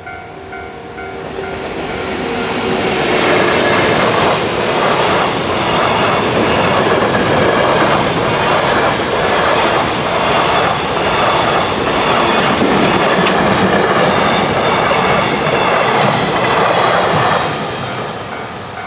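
Japanese level-crossing bell dinging steadily as an electric-hauled fast freight train approaches and passes through the crossing at speed. The wheels clatter over the rail joints in a loud, even rush that builds over the first few seconds, holds, and fades near the end, when the crossing bell can be heard again.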